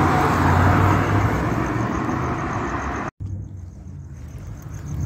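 Low engine rumble of a Ford Mustang GT's 5.0 Coyote V8 on the move, with road noise over it. The sound cuts out abruptly about three seconds in, comes back fainter, and builds again near the end.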